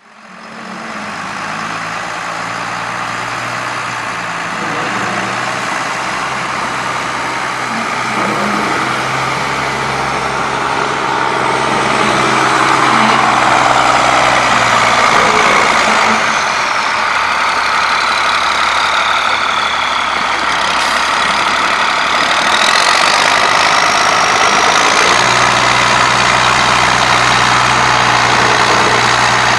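Tractor engine running steadily under load, with a high whine that falls and then rises in pitch about halfway through.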